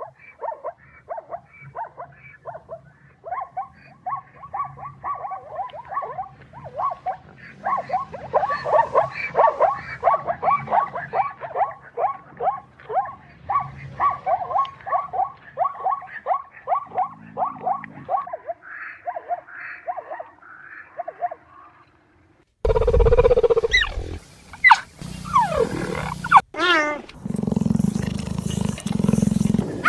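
Animal calls: a long run of rapid, evenly repeated short calls, about three a second, over a low hum. About 23 seconds in, after a brief gap, louder calls of another kind with sweeping rises and falls in pitch take over.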